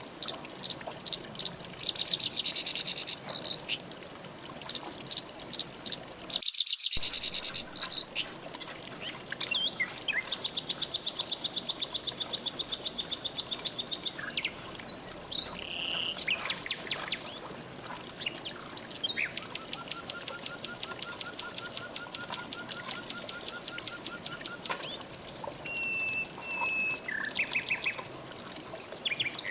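Several birds singing at once: rapid repeated chirps and trills at different pitches, with one lower trill held for about five seconds past the middle. Underneath runs a steady high insect buzz. The sound cuts out completely for about half a second a quarter of the way in.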